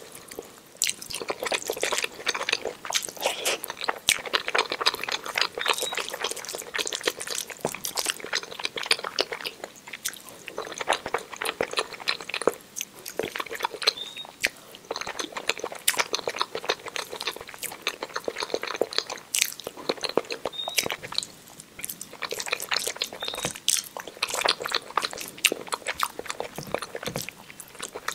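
A person chewing a mouthful of rice, mashed potato and egg omelette eaten by hand, with many quick clicks in runs broken by short pauses.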